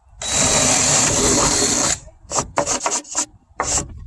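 Something scraped hard along a wooden board, like sanding or rasping the wood: one long stroke of nearly two seconds, then a quick run of shorter strokes.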